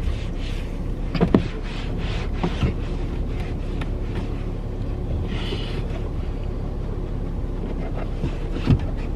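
Steady low hum of a car idling, heard from inside the cabin, with a few knocks of handling about a second in, at two and a half seconds and near the end, and a short hiss around the middle as the interior is wiped down.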